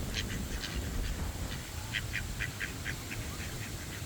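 Ducklings peeping: runs of short, high calls, a few at the start and a quicker run of about six around two seconds in, over a low rumble.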